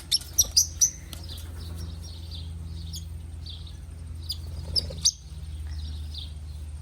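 Pet parrots chirping in short, repeated calls. A few sharp clicks come in the first second, and a steady low hum runs underneath.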